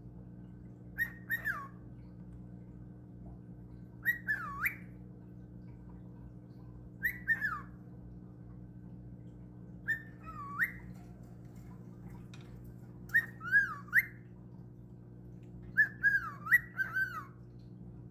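A cockatiel whistling short swooping phrases, six of them about three seconds apart, each a few quick falling and rising notes. A steady low hum runs underneath.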